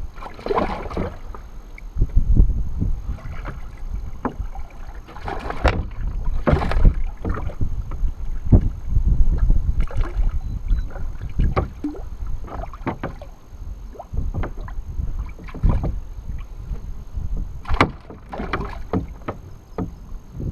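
Irregular knocks, bumps and splashes on and around a kayak while a hooked largemouth bass is played and brought aboard, over a low rumble of wind and handling on the microphone.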